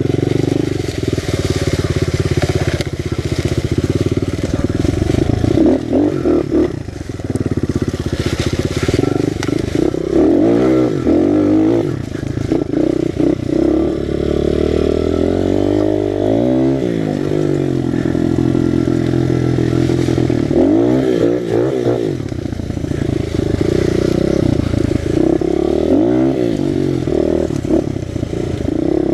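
Honda XR100 pit bike's small single-cylinder four-stroke engine, fitted with a BBR 120 big-bore kit, running under load while ridden. The revs rise and fall several times, about every five seconds.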